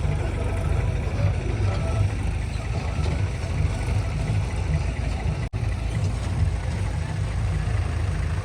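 Diesel tractor engine running with a steady low throb. The sound drops out for an instant about five and a half seconds in.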